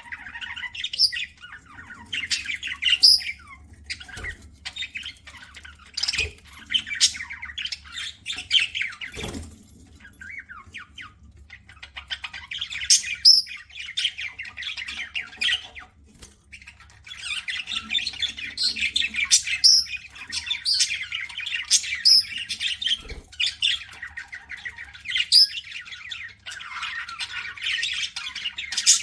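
Pet budgerigars chattering and warbling in bouts of rapid, high-pitched chirps and squawks, thinning out for a while and then growing dense in the second half. A few sharp clicks sound among the chatter.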